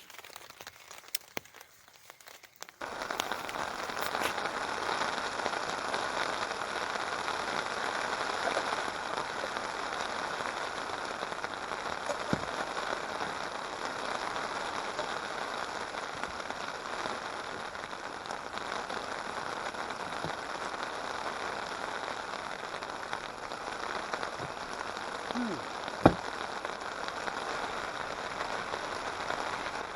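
Steady heavy rain, coming in suddenly about three seconds in and holding even throughout, with one sharp tap near the end.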